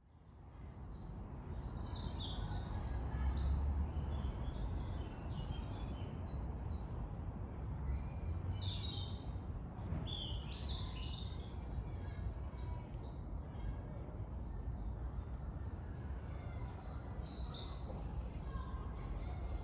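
Songbirds singing and calling in woodland, in bouts of quick high chirps and trills, over a steady low rumble of distant traffic. The sound fades in at the start.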